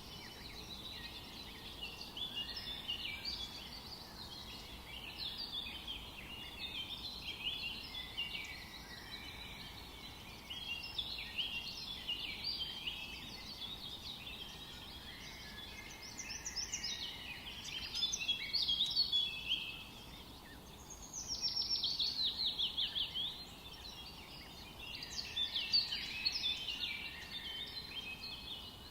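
Many small songbirds singing over one another in a forest, with quick chirps and trills over a soft steady background hiss. A louder, rapid trill of falling notes stands out about two-thirds of the way through.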